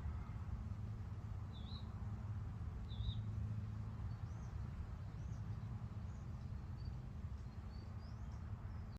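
Small birds chirping: two short wavering high chirps about two and three seconds in, then several fainter chirps, over a steady low rumble.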